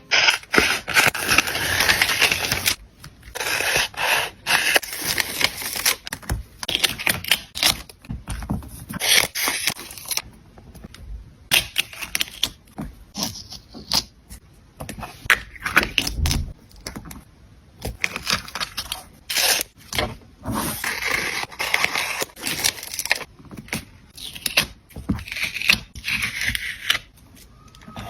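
Close-miked paper handling in art journaling: crinkling, tearing and scraping of paper in irregular bursts with short pauses.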